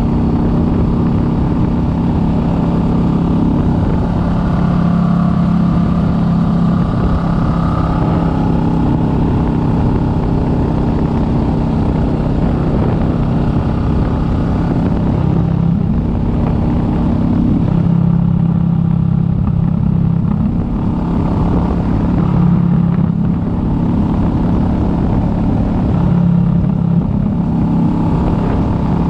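Kawasaki Vulcan S 650's parallel-twin engine running as the motorcycle is ridden, its note shifting up and down several times with throttle and gear changes.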